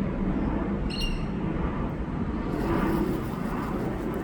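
Steady low outdoor rumble, with one short, high bird chirp about a second in.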